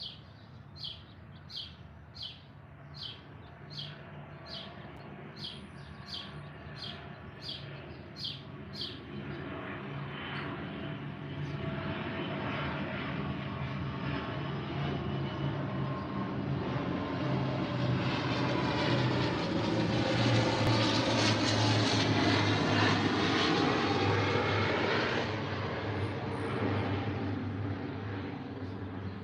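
A bird repeats a short chirp about one and a half times a second for the first nine seconds. Then an aircraft engine passing overhead drowns it out: it grows steadily, is loudest about twenty seconds in, and fades away near the end.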